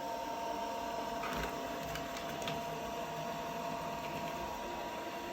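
COSTWAY robot vacuum cleaner running as it drives in circles: a steady motor whine over a hiss of airflow, with a few faint clicks between one and two and a half seconds in.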